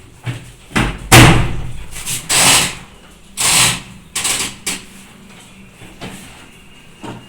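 Clothes being loaded into a washing machine: a run of knocks and bangs mixed with short swishing rustles. The loudest is a sharp bang about a second in.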